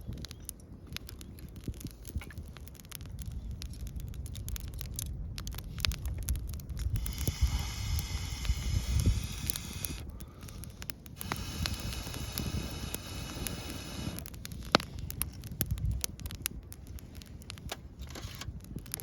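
Wood fire crackling in a fire pit, with scattered sharp pops throughout. About seven seconds in come two long blows into the fire through a blow pipe, each about three seconds long with a short break between, carrying a high whistling tone.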